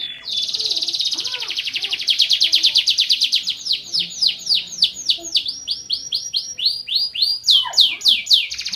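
Van Hesterling canary singing: a long, fast trill of rapidly repeated high notes, then a run of slower notes that sweep downward, breaking back into quick sweeps and a trill near the end.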